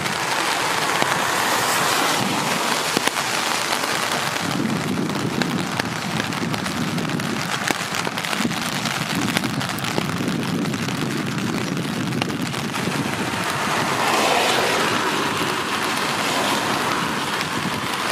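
Steady rain falling, with many close drops ticking on a surface; the noise swells louder for a moment about fourteen seconds in.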